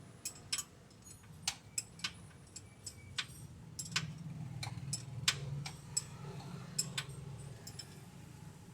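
Irregular metallic clicks and clinks of hand tools on metal parts during car repair work, over a low steady hum.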